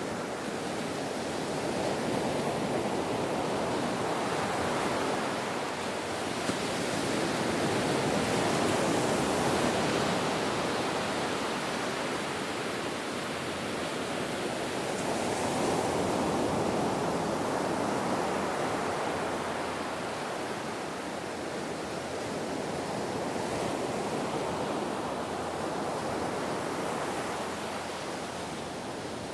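Ocean surf: a steady rush of waves breaking and washing in, swelling and fading gently every several seconds.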